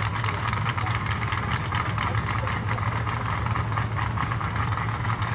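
Drag-race car engine idling steadily, with no revving.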